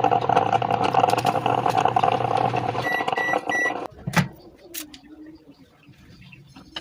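Microwave oven running with a steady hum, then three short beeps about three seconds in as the cycle ends; the hum stops, and a knock follows a moment later.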